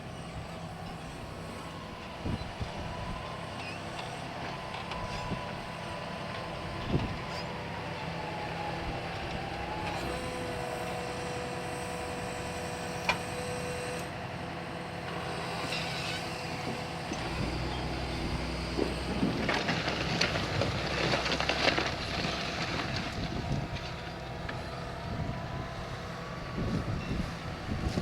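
Tractor engine running steadily under load while ploughing, with a whine that rises and falls slightly in pitch.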